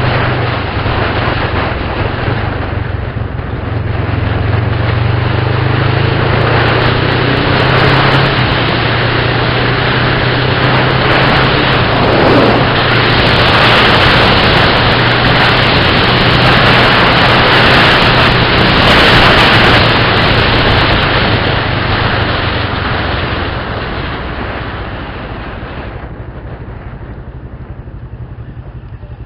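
A motor vehicle on the move: a steady low engine hum under loud road noise that swells in the middle and fades toward the end.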